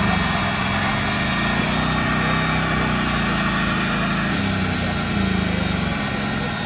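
A motorcycle engine running near idle, its pitch wavering slightly, with voices faintly in the background.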